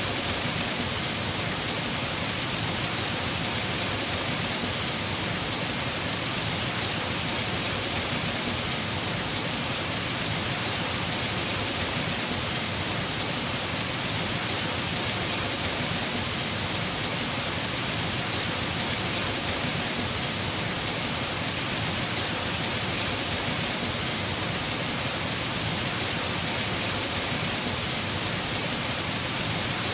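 Heavy rain falling on a house roof, a steady, even hiss with no let-up.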